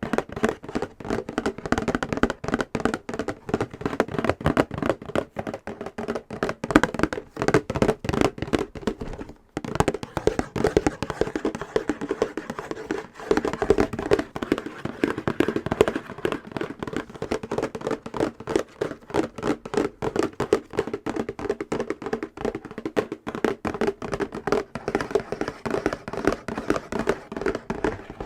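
Fast fingernail tapping on a hollow box, many quick taps a second with a hollow ring, pausing briefly about nine seconds in.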